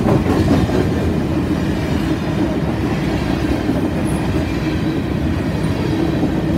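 Covered hopper cars of a Canadian Pacific grain train rolling past, a steady, loud rumble of steel wheels on the rails.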